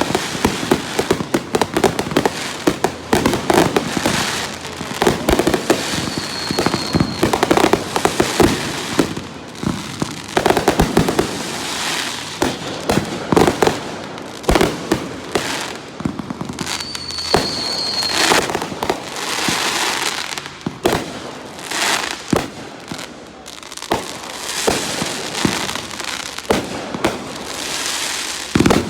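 Aerial fireworks display going off without a break: rapid bangs and long stretches of crackling, with a brief high whistle twice, about a fifth of the way in and again just past the middle.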